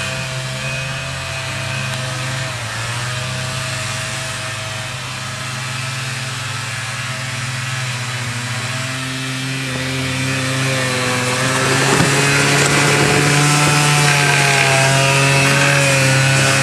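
Quad bike engine running, its pitch rising and falling with the throttle, getting louder about ten seconds in.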